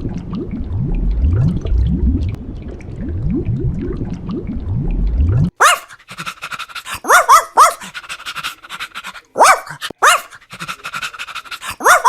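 A dog vocalizing: for about the first half, a low sound repeated and rising in pitch each time, then from about halfway, short high-pitched yelps and whimpers in quick groups.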